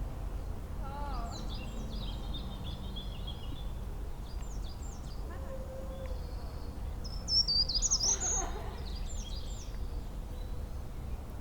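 Wild songbirds chirping in short, high phrases and trills, with the loudest burst of song about seven to eight seconds in, over a steady low background rumble.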